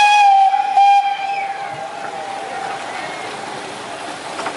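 Zoo train's whistle blowing a long steady note that breaks off about half a second in, sounds again briefly and fades out, over the train's steady running rumble.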